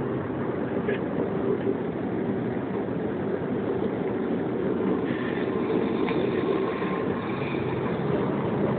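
Steady rumble of a moving train, heard from inside a sleeping carriage.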